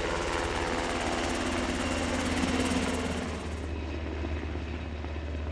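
UH-60 Black Hawk helicopter running, its twin turboshaft engines and rotor making a steady heavy noise; about three and a half seconds in the hissing upper part of the sound falls away and it becomes duller.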